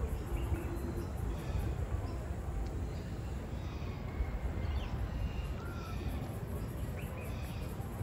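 Wild birds calling outdoors: scattered short calls and chirps, some crow-like, over a low steady rumble.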